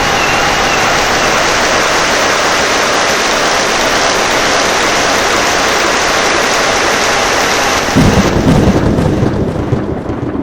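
Heavy rain falling steadily. About eight seconds in, a loud clap of thunder breaks in and rumbles on, while the rain's hiss thins.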